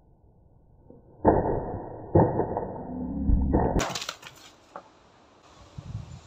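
Karate strikes breaking rotten wooden boards by hand and foot: two heavy impacts about a second apart with the wood cracking and splintering, then a quick run of sharp cracks as pieces fly apart.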